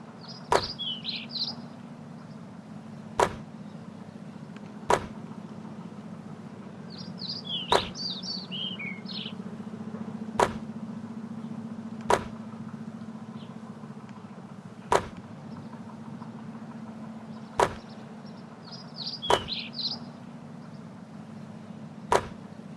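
A basketball making about ten sharp hits a couple of seconds apart, from shots into the net and bounces. Birds chirp in three short bursts, over a steady low hum.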